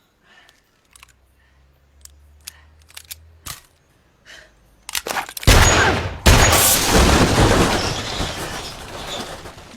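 Film action sound: a few faint clicks over a low hum, then about five seconds in a sudden loud explosion with a second blast close behind. It dies away slowly over the last few seconds.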